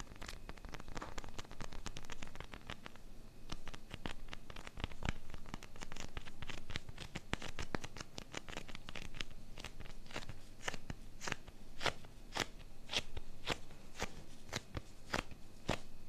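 Close-miked ASMR trigger sounds: a dense run of sharp, crackly clicks, settling into about two a second in the second half.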